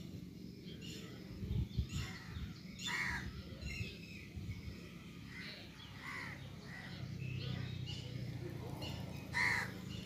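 Birds calling: a handful of short calls spread through, over a faint low background.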